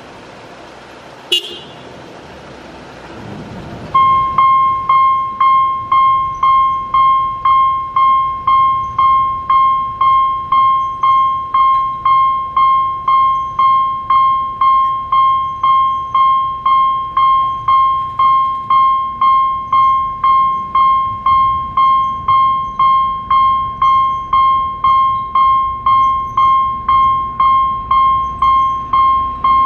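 Level crossing warning bell starting about four seconds in, ringing evenly about twice a second, each stroke a bright tone that fades before the next. A single sharp click comes about a second in, before the bell starts.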